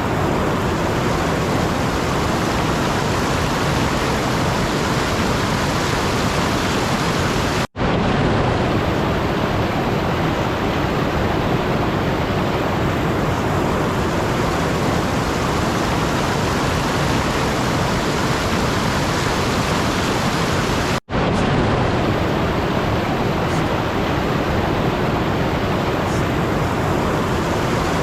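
Steady, loud rushing noise like pink noise or rain, even and without any tone or rhythm, broken by two sudden split-second dropouts to silence, about 8 and 21 seconds in.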